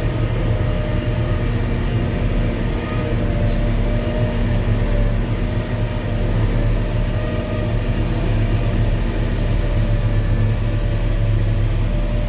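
Volvo L70H wheel loader with a snow blower attachment running, heard from inside the cab as a loud, steady low drone of engine and machinery.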